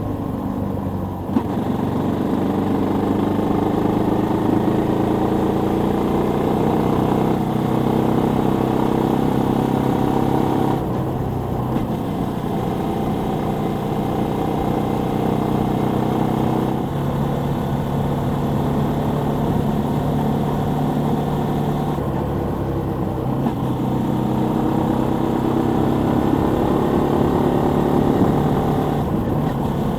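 Suzuki Volty 250's single-cylinder four-stroke engine under way, its note climbing in pitch as the bike accelerates. The pitch drops back and climbs again about four times, where the throttle is eased or a gear is changed.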